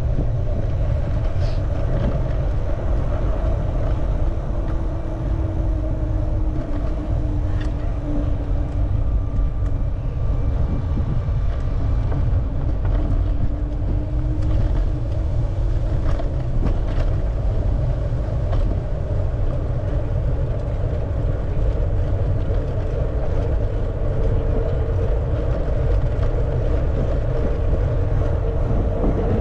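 Steady low rumble of wind and road noise while cycling through city traffic, with motor vehicles passing; faint engine tones slowly slide in pitch.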